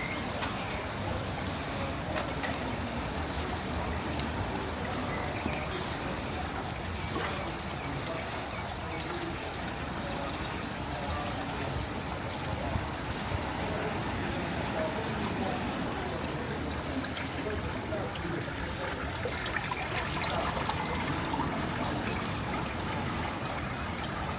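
Rain falling with water trickling and running off, a steady hiss with scattered small drip clicks.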